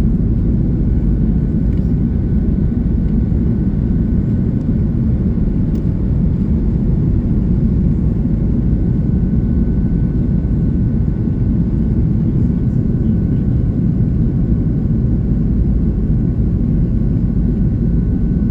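Cabin noise inside an Airbus A330-300 in flight after takeoff: a steady, deep rumble of engines and airflow with a faint steady whine above it.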